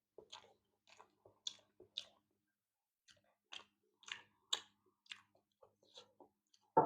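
A person chewing a mouthful of food, with a string of short, wet clicks about two a second. One louder thump comes just before the end.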